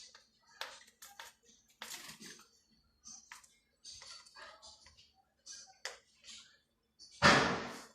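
A bird pecking and tapping at a mirror: a run of irregular light taps, with one much louder noisy burst about seven seconds in.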